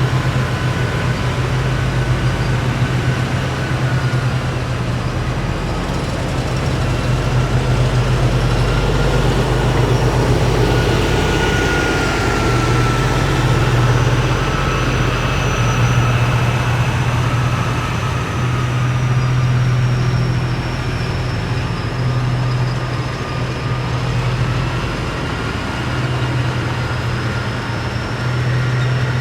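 Heavy military vehicles driving past in a column: a steady deep engine drone under high, thin whines that slowly drift in pitch.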